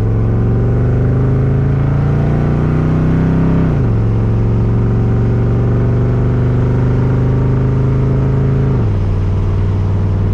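1982 Camaro's 5.0 V8 running through new mufflers under light acceleration while driving. Its pitch climbs slowly, drops sharply about four seconds in as the automatic gearbox shifts up, holds steady, and drops sharply again near the end.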